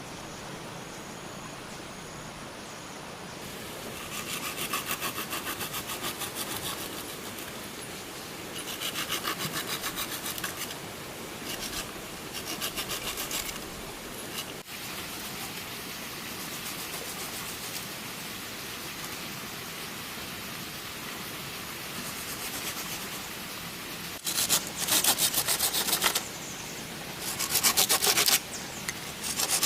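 Hand saw cutting bamboo in several spells of quick rasping strokes, the last two spells near the end louder. Insects chirr faintly at the start.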